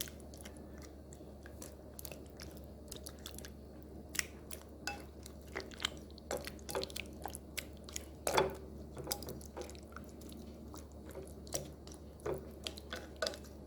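Raw chicken wings being mixed through a sticky honey sauce in a bowl: scattered small wet clicks and squelches, quiet and irregular, with one louder knock about eight seconds in.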